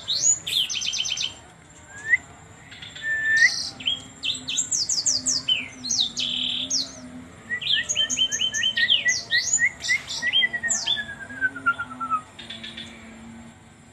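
Songbird singing: a varied run of quick whistled notes, sharp downward-sweeping chirps and short trills, with a string of repeated notes that climbs and then falls away from about eight to twelve seconds in, over a faint low hum.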